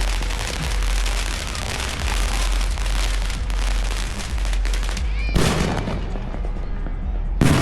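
Consumer fireworks going off in a dense, rapid crackling barrage, then two louder sharp bangs, the first about five seconds in and the second near the end, with a short whistle after the first.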